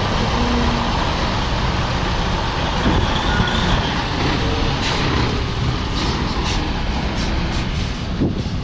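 Semi truck's diesel engine running as the truck pulls forward, a steady rumble with a few short clicks or knocks in the second half.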